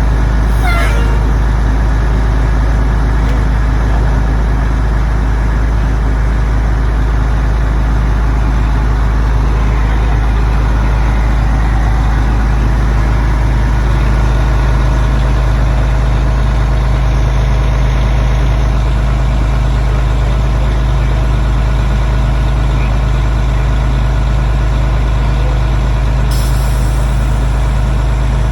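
Diesel engine of a fire truck idling steadily with a heavy, unchanging rumble. A short hiss of air comes near the end.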